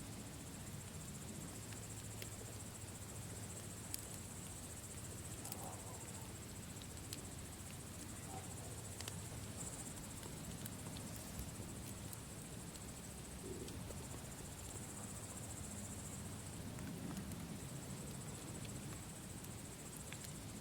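Campfire burning: a low, steady noise of the fire with scattered sharp crackles and pops, under a continuous high-pitched trill.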